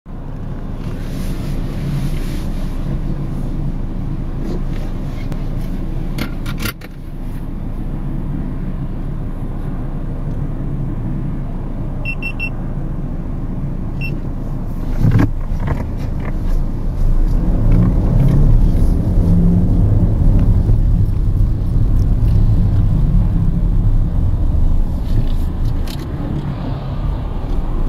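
Cabin sound of a Mercedes-Benz C 200 CDI's 2.1-litre four-cylinder diesel running at low speed: a steady low rumble that grows louder a little past halfway. A sharp click comes near the start and a thump about halfway.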